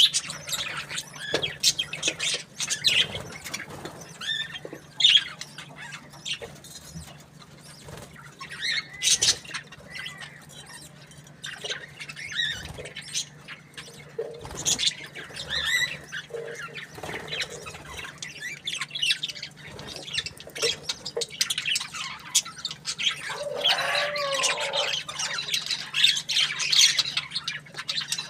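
Budgerigars chirping, many short high calls coming quickly one after another, over a steady low hum.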